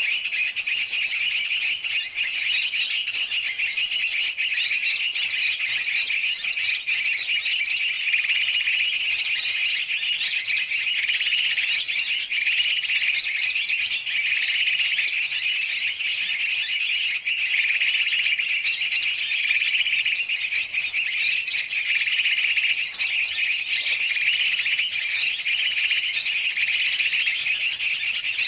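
A noisy mix of many songbirds calling and chattering at once, with dense overlapping chirps, unbroken throughout: a bird-trapping lure recording (pikat) for yellow-vented bulbuls (trucukan), made to draw birds in.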